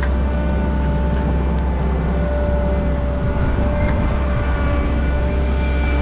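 Diesel engine of a heavy earthmoving machine running steadily, a deep drone with a steady whine over it.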